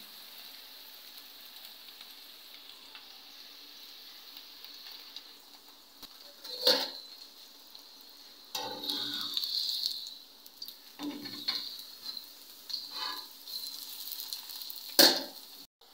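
Paratha frying on a hot iron tawa with a faint, steady sizzle. From about six seconds in, metal tongs clink and scrape against the griddle several times as the paratha is handled, with one sharp clink near the end.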